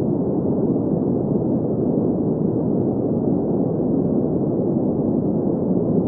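Green noise: a steady, unbroken hiss-like rush centred in the low-middle range, with almost nothing above the upper mids, unchanging throughout.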